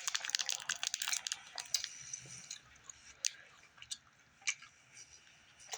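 Close-up mouth sounds of someone chewing Gushers fruit snacks: dense wet clicks and crackles for about the first two seconds, then a few isolated clicks.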